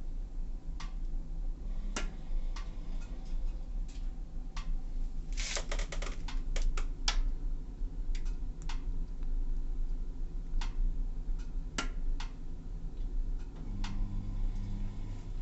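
Waterland 18 kW pellet stove running: a steady low hum with irregular light clicks and ticks, and an added hum for a second or so near the end.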